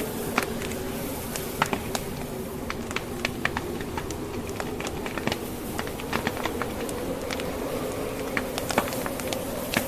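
Wood fire crackling in a fireplace, with irregular sharp pops and snaps from the burning logs, over a steady wavering howl of blizzard wind.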